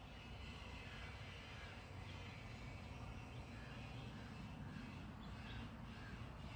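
Faint outdoor ambience: a steady low rumble with faint, repeated bird calls, crow-like caws among them.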